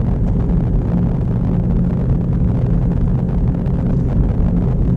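Petrol car on the move, heard from inside the cabin: engine and road noise as a steady low rumble with a faint engine hum.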